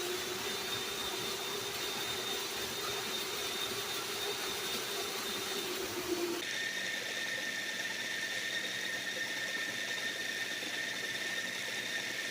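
Power tools running steadily in a woodshop. About six seconds in, the sound changes abruptly from a low motor drone to a different, higher-pitched whine.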